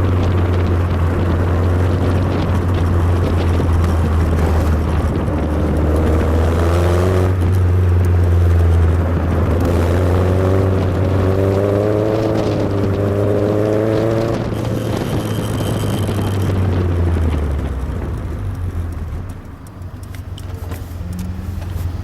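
Tiger sports car engine running with a deep steady rumble, its pitch rising and falling through the middle as the car is driven hard round a roundabout. The engine sound fades near the end.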